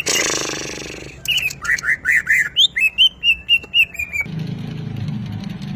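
A green leafbird (cucak ijo) sings a fast run of about a dozen sharp, high chirping notes. The run follows a second-long burst of rustling noise at the start, and a low hum takes over near the end.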